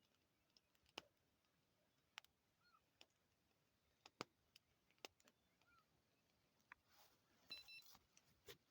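Near silence with faint scattered clicks and ticks, and a brief faint high beep about three-quarters of the way through.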